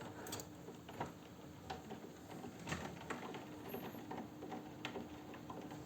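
Irregular light ticks and taps, one to three a second, over a faint steady hum.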